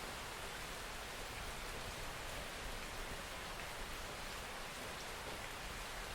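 Steady rain falling, an even hiss with a few faint individual drops.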